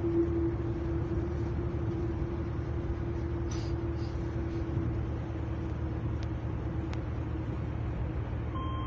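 Passenger train running, heard inside the carriage: a steady low rumble with a hum that slowly sinks in pitch. Near the end the first note of a public-address chime sounds.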